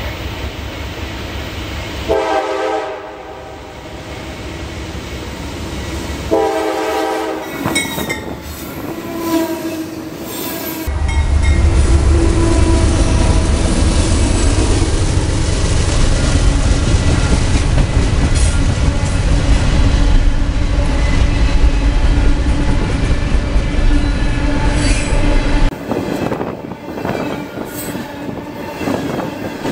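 CSX freight train: the diesel locomotive's horn sounds in long blasts as it approaches, then the locomotives pass close by with a heavy, steady rumble, followed by freight cars rolling past on the rails.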